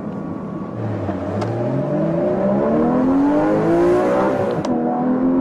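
Porsche Cayman GTS's 3.4-litre flat-six with sports exhaust accelerating hard, its note rising steadily. Near the end there is a quick upshift in the six-speed manual: the pitch drops and then starts climbing again.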